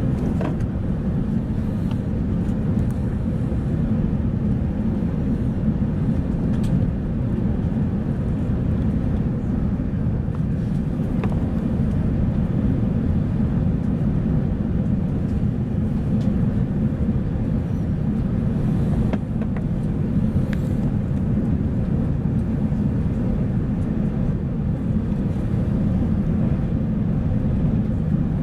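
Steady low rumble of an Airbus A380 cabin in flight on approach, airflow and engine noise with no change in level, and a few faint clicks over it.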